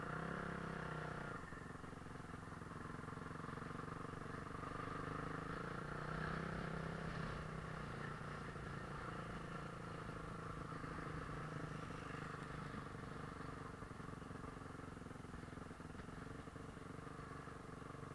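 Motocross motorcycle engine running steadily, without sharp revving.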